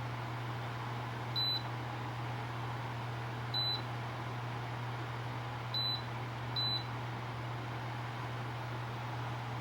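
Dreo tower fan running with a steady rush of air and a low hum, and four short high beeps from its controls as settings are changed, the last two less than a second apart.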